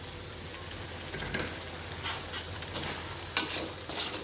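Chicken and freshly added sliced leeks sizzling in a wok with soy and oyster sauce, while a spatula stirs and scrapes the pan a few times, most sharply about three and a half seconds in.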